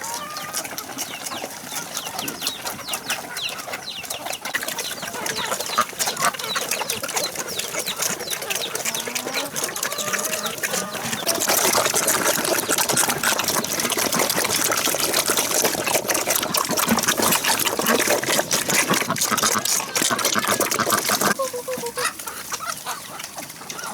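Chickens clucking with short calls over dense clicking and rustling. About halfway through, a louder rustling noise sets in for roughly ten seconds, then drops away.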